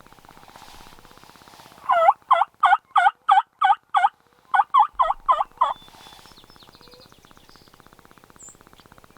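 Turkey yelping: a loud, evenly paced run of seven short yelps, a brief pause, then four more.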